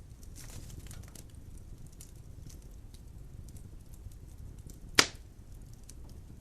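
Wood logs burning in a fireplace: a steady low rumble of flames with scattered small crackles, and one loud sharp pop about five seconds in.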